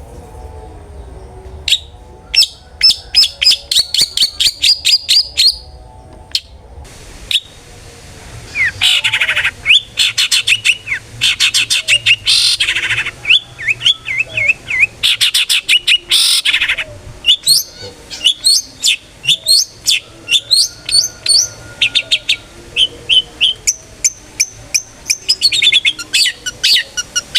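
Long-tailed shrike (cendet) singing loudly in its open 'ngeplong' style: rapid runs of repeated high notes and trills, pausing briefly a quarter of the way in, then continuing densely.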